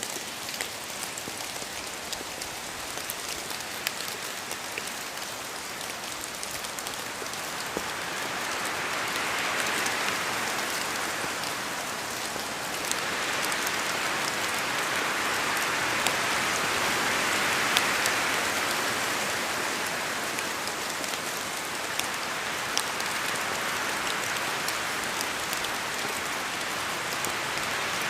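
Steady rain in a forest, with individual drops from the trees ticking sharply through the hiss. The rain noise swells louder twice, around ten seconds in and again through the middle.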